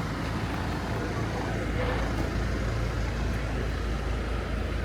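Steady road noise from riding a moped in traffic: a low rumble of engine and wind with no distinct events.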